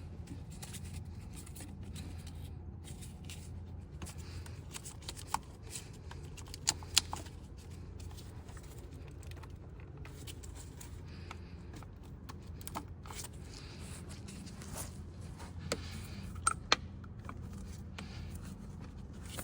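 Scattered small clicks and knocks of hand work in a car engine bay as coolant hoses and their clips are pushed back on, over a steady low hum.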